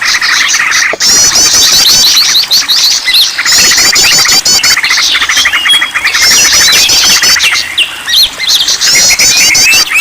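Bird-lure recording of many small birds chirping and trilling together, loud and dense, with the same rapid trilled phrase coming back every few seconds as the recording loops.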